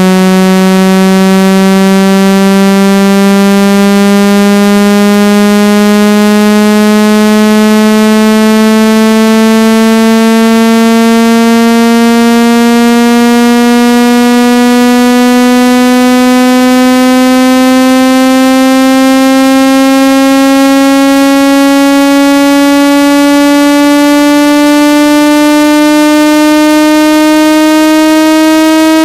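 Synthesized water-eject tone for clearing water from a phone or earphone speaker: a loud, buzzy electronic tone rich in overtones, its pitch gliding slowly and steadily upward.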